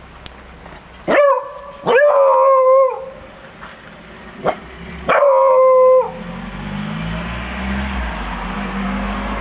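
A beagle baying: a short bark, then a drawn-out howl of about a second, a quick yip, and a second long howl. From a little past halfway a steady low rumbling noise continues.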